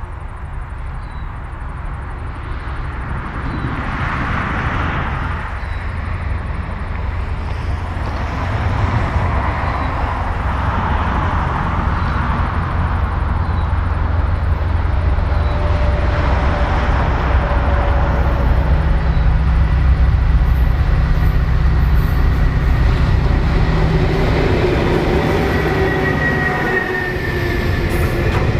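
Clyde-EMD diesel locomotives hauling a container freight train. The engines' low rumble grows steadily louder as the train approaches, and near the end the locomotive passes and the container wagons start rolling by.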